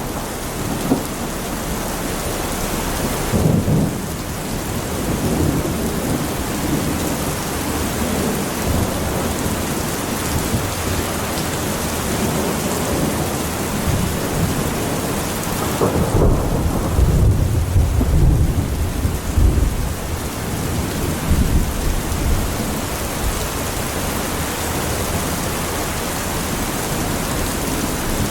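Heavy rain pouring down steadily, with thunder rolling underneath: a low rumble about three and a half seconds in, and a longer, louder roll of thunder about sixteen seconds in that lasts several seconds.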